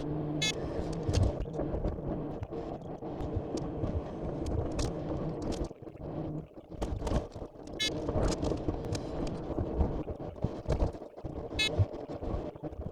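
Heavy timber truck running, with frequent knocks and rattles and three short high squeaks.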